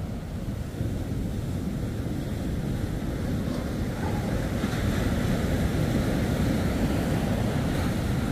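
Surf washing on the beach with wind buffeting the microphone; the wash grows a little louder about halfway through.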